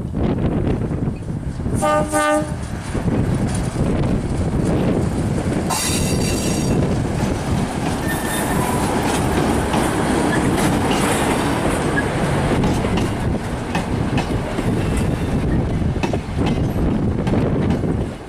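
Z1 locomotive hauling a train past at a level crossing, a steady loud rumble of engine and wheels on rail. Its horn sounds briefly about two seconds in, and a higher, brighter horn note follows about six seconds in.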